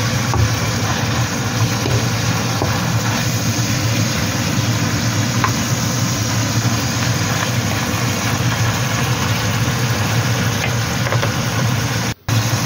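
Minced pork sizzling steadily as it fries in hot oil in a pan, over a constant low hum. The sound drops out for an instant near the end.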